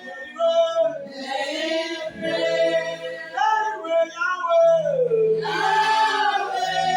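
Choir of mixed male and female voices singing a slow, drawn-out melodic line over steady, held low accompaniment notes.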